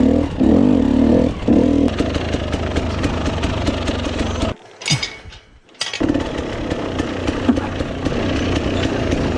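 Dirt bike engine running steadily. The sound drops away for about a second midway, then picks up again.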